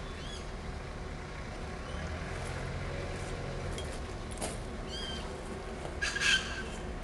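Birds calling: a few short chirps, then a louder, harsher call about six seconds in, over a low steady rumble.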